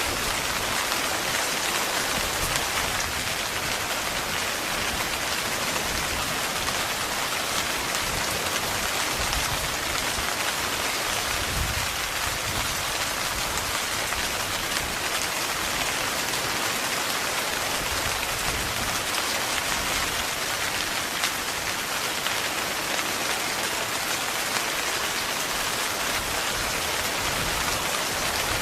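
Heavy rain falling steadily on a tent: a dense, even hiss of drops with individual drop hits on the fabric.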